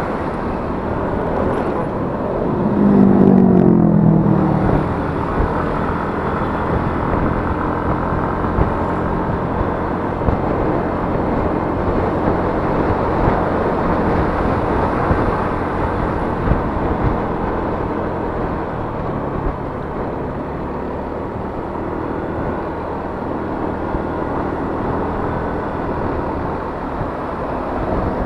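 Yamaha Mio S 125 scooter's single-cylinder engine running steadily under way, with road noise. About three seconds in, a louder pitched sound swells for a second or two and slides down in pitch.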